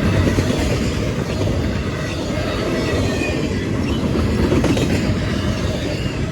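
Freight train cars of an intermodal train rolling past at close range: a steady rumble of wheels on rail, with thin, faint high wheel squeals now and then.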